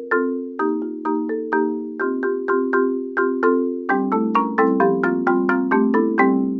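Marimba played with four mallets: a steady stream of struck chords. About four seconds in, lower notes join and the strokes come faster.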